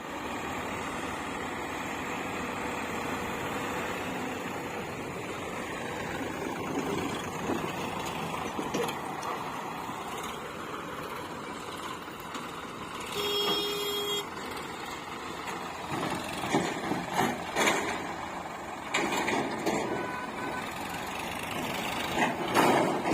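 Diesel engines of a backhoe loader and tractors running steadily while they work loading mud. A single beep lasting about a second sounds midway, and irregular knocks and clatter come in the later part.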